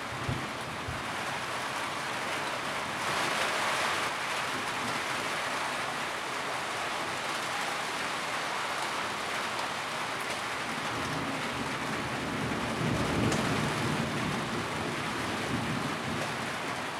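Steady rain falling on a tin roof, a continuous patter with no break, growing a little heavier about a quarter of the way in. A low rumble swells underneath about two-thirds of the way through.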